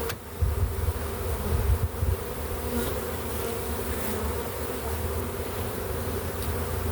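A swarm of honey bees buzzing, a dense steady hum of many wings, with uneven low rumbling underneath.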